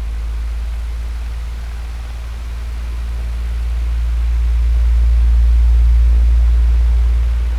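Electric fan running: a steady whooshing noise with a deep low rumble, swelling slowly louder and peaking about three-quarters through before easing off.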